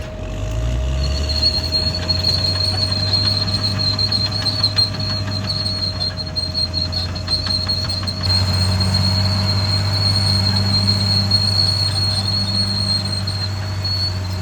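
Caterpillar D6R XL crawler bulldozer working: its diesel engine runs steadily under a sustained high-pitched squeal and light clatter from the steel tracks and undercarriage.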